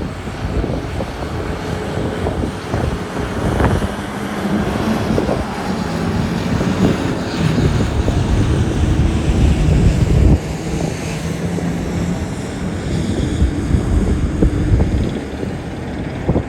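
Large diesel engines of heavy mining machinery running steadily under load, with wind buffeting the microphone. The engine hum swells about eight to ten seconds in, and a few sharp knocks are heard.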